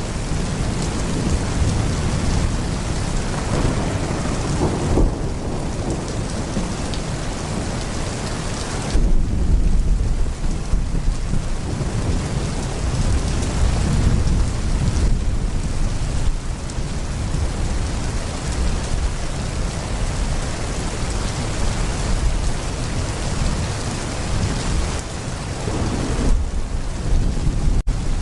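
Heavy rain pouring steadily, with thunder rumbling low underneath and swelling about a third of the way through. There is a momentary dropout near the end.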